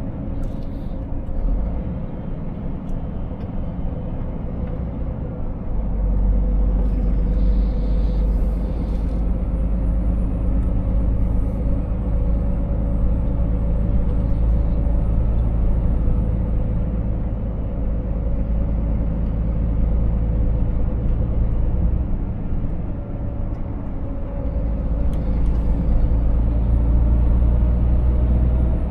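Scania 500S truck's engine running steadily under way, heard from the cab, with a deep rumble that swells about six seconds in and again near the end, and a faint high whistle drifting in and out.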